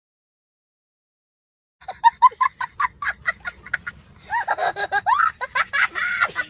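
Total silence for nearly two seconds, then a person laughing: a quick run of short 'ha' pulses, followed by longer laughs that rise and fall in pitch.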